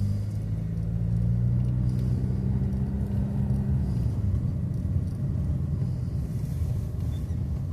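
Car engine running with a low, steady hum and rumble as the vehicle moves slowly; the hum is smooth for the first few seconds, then rougher.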